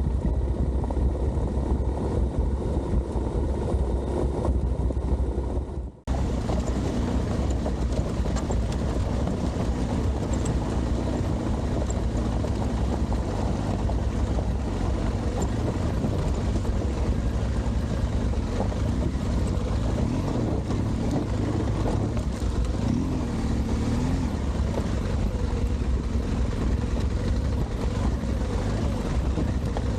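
Adventure motorcycle engine running under way on a gravel track, with a steady low rumble and wind buffeting the microphone; a sudden cut about six seconds in, after which the engine note rises and falls slightly with the throttle.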